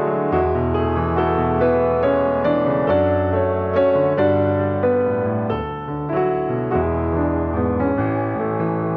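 Gentle piano music, a slow melody over sustained chords with notes struck every half second or so.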